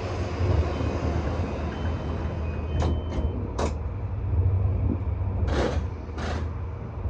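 E235 series electric train heard from the front of the train: a steady low rumble with four short hissing bursts in the second half.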